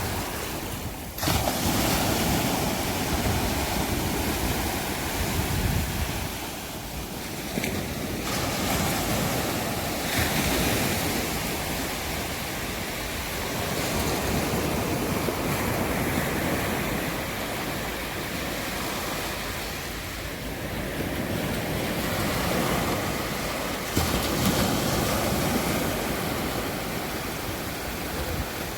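Sea surf breaking and washing up the beach in swells every few seconds, with wind buffeting the microphone.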